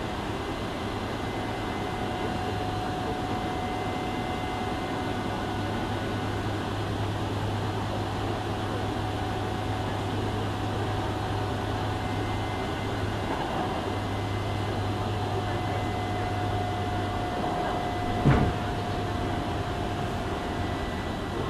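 Hankyu 7000-series electric train running between stations, heard inside the car: a steady rumble of wheels on rail with a steady whine. There is a single sharp knock about eighteen seconds in.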